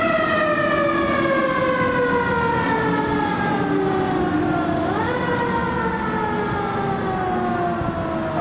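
Fire engine siren sounding, its pitch falling slowly, then rising quickly about halfway through and falling slowly again.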